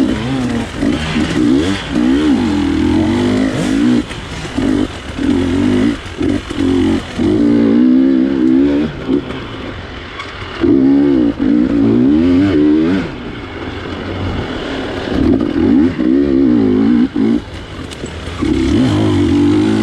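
GasGas 250 dirt bike engine revving hard in short bursts, the throttle opened and chopped again and again so the pitch rises and falls every second or two, over a steady clatter of the bike.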